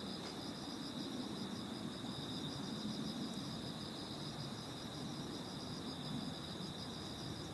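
Autumn night insects trilling steadily in two high pitches, one finely pulsing, over a low steady rumble.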